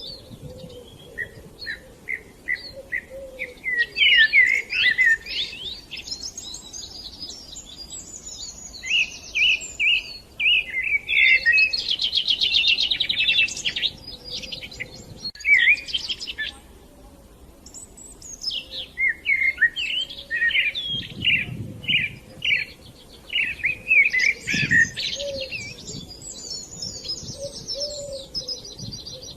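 Several songbirds singing and chirping in quick, overlapping phrases, with a buzzing trill near the middle and a short lull after it.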